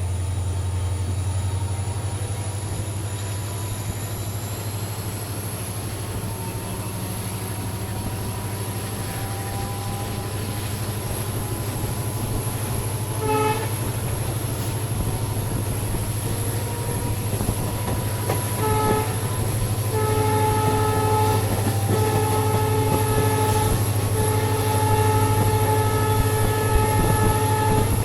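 WDP4D diesel locomotive's EMD two-stroke engine droning steadily under way, with its air horn sounding: a short toot about 13 seconds in, another near 19 seconds, then three long blasts with brief pauses between them running into the end.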